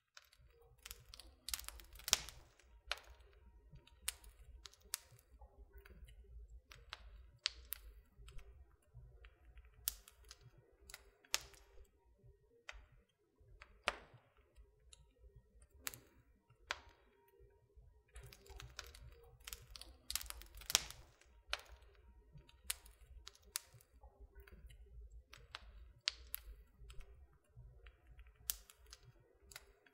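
Wood fire crackling in a fireplace: irregular sharp pops and snaps, a few louder ones, over a faint low rumble of the flames.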